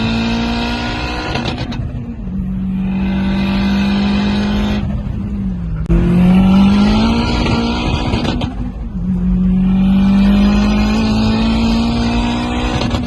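Turbocharged Honda K24A3 four-cylinder engine with a Holset HX40 turbo, revved and held at high, steady revs for long stretches. The revs drop briefly about two seconds in, again near six seconds, where they climb back in a rising pull, and once more near eight and a half seconds.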